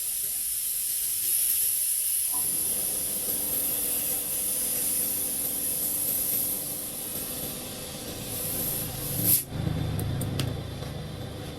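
A steady, loud hiss of air or spray that cuts off suddenly about nine seconds in, followed by a lower mechanical rumble.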